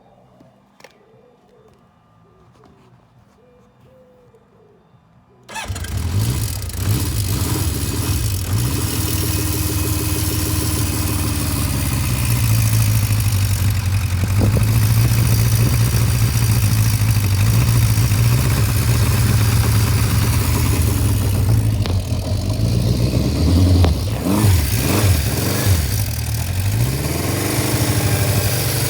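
Honda CB550K's air-cooled inline-four engine starting from cold: it catches suddenly about five seconds in and runs steadily, then is revved briefly a few times near the end before settling back.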